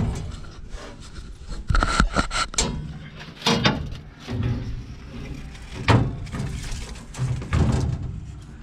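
Irregular knocks and clatter of parts and panels being handled and fitted on a combine harvester, a dozen or so sharp strikes with rumbling in between.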